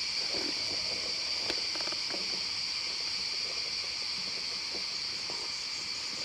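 Steady chorus of forest insects, a constant high buzz, with a few faint clicks and rustles of movement underneath.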